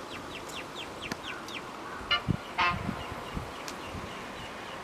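Birds calling: a quick run of high, falling chirps, then two harsher calls a little after two seconds in. A few low thumps come between about two and three and a half seconds in.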